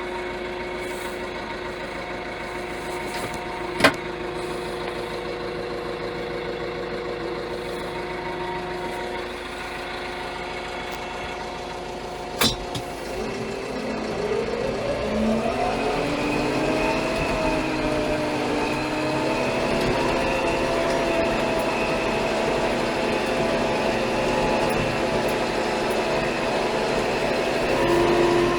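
Steyr 4075 Kompakt tractor's four-cylinder FPT diesel engine running steadily. Two sharp knocks come through, one about 4 seconds in and one about 12 seconds in. About halfway through, the engine speed rises and then holds at a higher, somewhat louder pitch.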